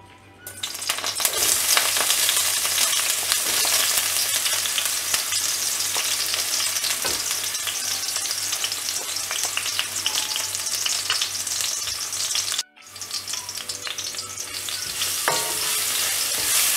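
Ginger-garlic paste and chopped green chillies hitting hot coconut oil in a kadai, bursting into a loud sizzle about half a second in. The frying goes on steadily as a wooden spatula stirs it near the end, with a momentary break about three-quarters of the way through.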